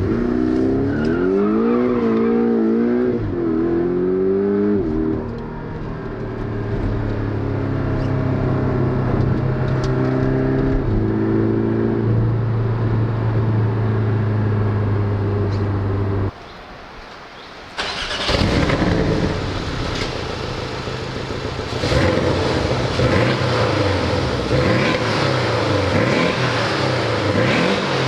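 Porsche 718 Cayman GTS's turbocharged flat-four engine revved several times, rising and falling in pitch, then held at a steady speed. After a brief cut it runs again with a busier, hissier sound and wavering pitch.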